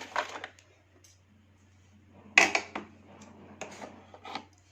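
Light clinks and rustles of sewing machine parts and fabric being handled, in a few short bursts over a faint steady low hum.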